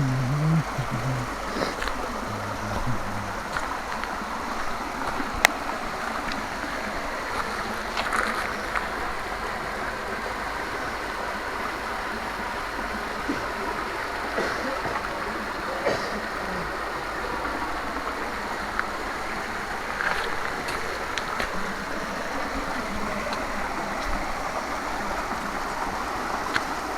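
Steady rushing noise of a mountain bike being ridden on a dirt trail, tyres and wind on the microphone, with occasional sharp clicks and knocks from the bike.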